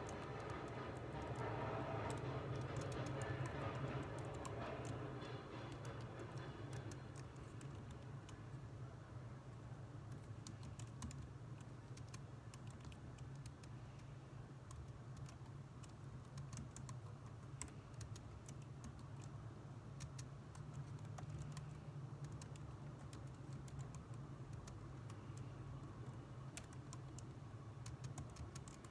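Computer keyboard typing: quick, irregular keystroke clicks over a steady low hum and background noise. The background noise is louder for the first few seconds.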